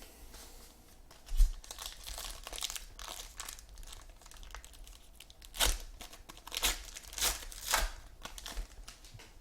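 Trading-card pack wrappers being torn open and crinkled, in a series of uneven crackles with a sharp knock about a second and a half in and louder crackles in the second half.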